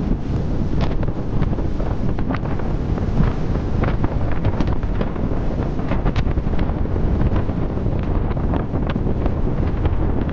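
Heavy monsoon rain with wind buffeting the microphone as a steady low rumble, and many sharp drop impacts scattered throughout.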